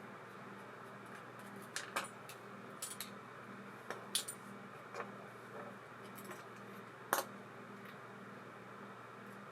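Irregular light metallic clicks and clinks of small metal reel parts being handled and set down on a workbench, the loudest one about seven seconds in, over a faint steady low hum.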